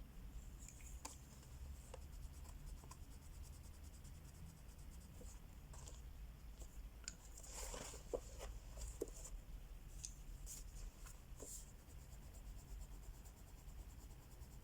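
Crayola wax crayon scratching on paper in quick back-and-forth colouring strokes, faint and steady, with a brief rustle and a couple of light taps about eight seconds in.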